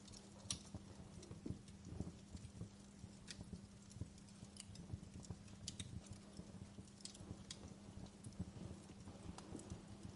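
Wood fire in a fireplace crackling: irregular sharp pops and snaps, several louder than the rest, over a low steady hum of the burning.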